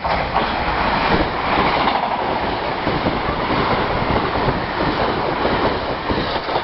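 Passenger train running through a station at speed close by: a loud, steady rush of wheel and track noise that starts abruptly.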